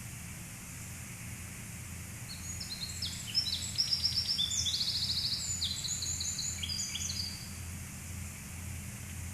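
A songbird sings a rapid run of high chirps and trills lasting about five seconds, over a steady low rumble and hiss.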